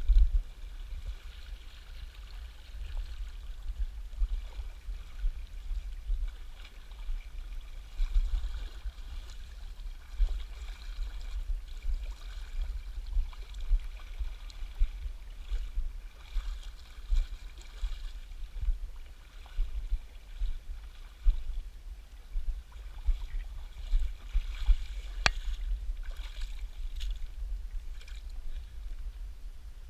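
River water rushing steadily, under an uneven low rumble, with one sharp click about 25 seconds in.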